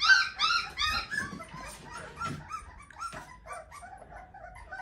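A dog whining in a rapid run of short, high-pitched yips, about four a second. The yips are loudest in the first second or so, then grow fainter and more scattered.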